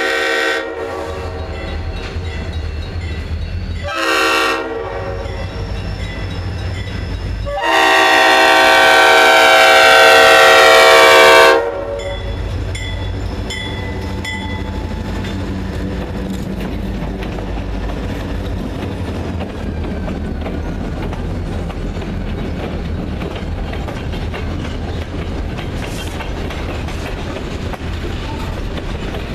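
Freight train's diesel locomotive horn, a chord of several notes: a long blast ending at the start, a short blast a few seconds in, then a loud long blast of about four seconds, the closing notes of the long-long-short-long grade-crossing signal. Then the steady rumble of the locomotive and the clickety-clack of cars rolling past on the rails.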